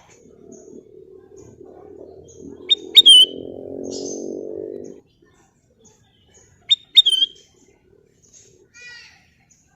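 Kutilang emas bulbul calling: short, sharp whistled notes with a falling tail about three seconds in and again about seven seconds in, and a quick run of softer descending notes near the end. A low droning hum grows under the first five seconds and then stops abruptly.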